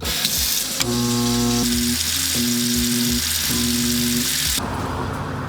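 Broken kitchen garbage disposal switched on: a loud, steady hissing grind that cuts off suddenly about four and a half seconds in. A few musical notes sound over it.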